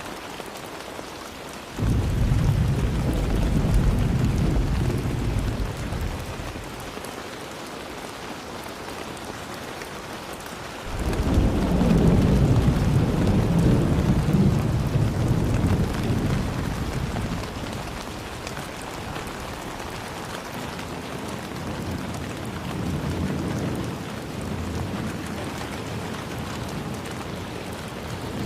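Steady rain with thunder: a deep rumble starts suddenly about two seconds in and dies away over several seconds, a second, louder and longer roll comes in about eleven seconds in, and a fainter rumble follows later.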